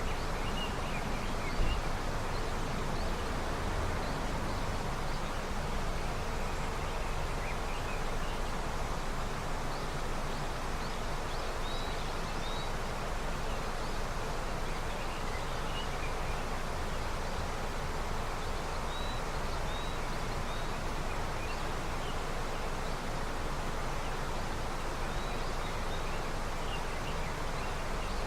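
A river running with early snowmelt, a steady rushing of water. Faint short bird chirps come and go over it, and there is one brief low bump about a second and a half in.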